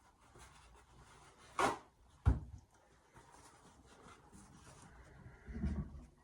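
Handling noises as a sheet of paper is fetched: a brief paper rustle about one and a half seconds in, a single sharp knock just after, then faint rustling and a dull bump near the end.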